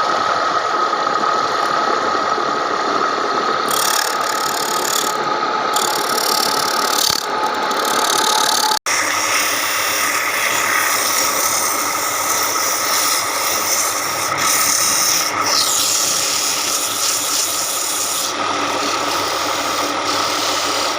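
Electric power sander running steadily on wood, a constant whine over an abrasive scraping hiss, with a split-second break about nine seconds in.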